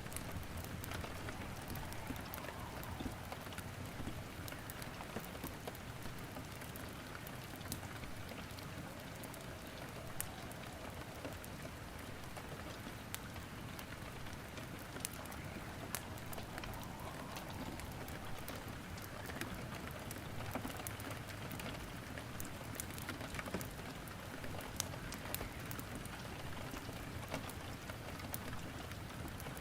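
Steady rain falling, mixed with frequent sharp crackles and pops of wood logs burning in a fireplace.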